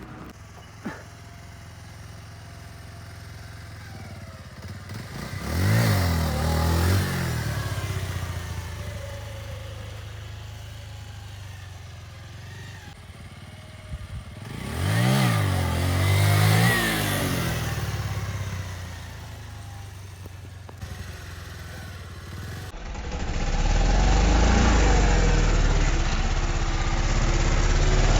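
Two motor vehicles, likely motorcycles, pass one after the other, each engine note rising and then falling as it goes by. Near the end a loud low rumble starts and holds.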